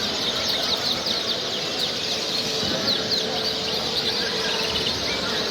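Many caged songbirds chirping and singing together, a dense overlapping chorus of short high chirps, over a steady low din.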